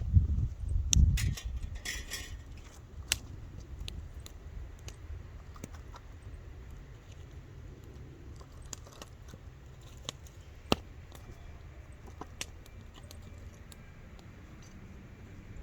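Wood bonfire crackling, with scattered sharp pops and snaps over a low, steady bed of fire noise. A low rumble and a burst of louder pops come in the first two seconds, with a brief hiss about two seconds in.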